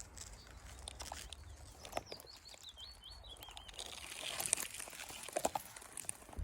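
Gorse and twigs crackling and rustling as someone pushes back out through the scrub, with sharp snaps about one, two and five and a half seconds in. A small songbird sings a short wavering phrase about two seconds in.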